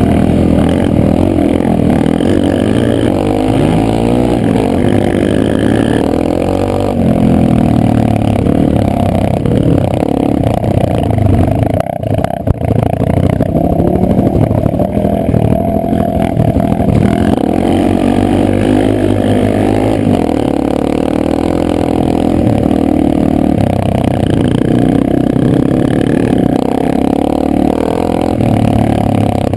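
Honda CRF250L's single-cylinder four-stroke engine running while trail riding, its pitch rising and falling with the throttle. The engine note briefly drops away with a sharp knock about twelve seconds in.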